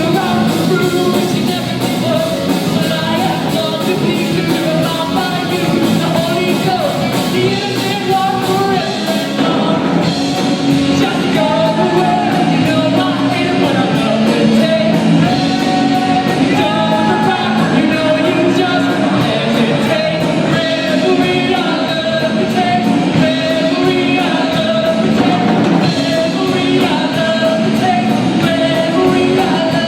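A school rock band playing its own song live, with a singer over the band.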